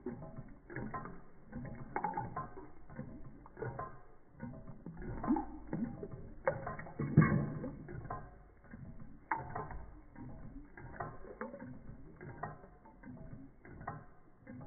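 Reichelt Adler Stirling engine running a Péricaud pump, its linkage and the pump's mechanism clicking and knocking irregularly, with a louder knock about seven seconds in.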